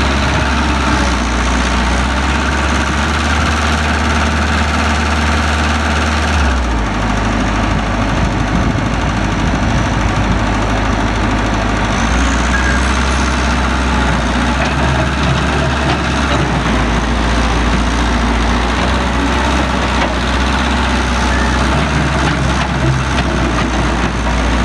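Heavy diesel engine of a working excavator running steadily, its low engine note shifting about six seconds in and again about halfway, as the load on the machine changes.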